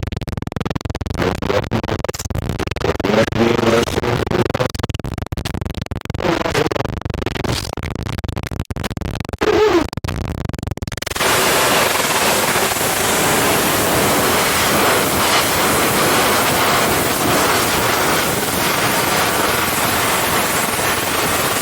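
Television static: for the first half an uneven, crackling noise with brief pitched bits and dropouts, then, about halfway through, a sudden switch to a louder, steady full-range white-noise hiss.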